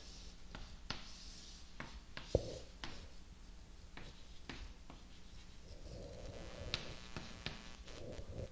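Hand-drawing a diagram: faint scratching strokes with scattered light taps.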